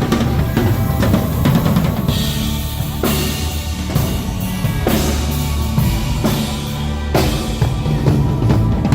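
Live rock band playing an instrumental with the drum kit to the fore: bass drum and snare drive the rhythm over a sustained bass line, with cymbal crashes several times.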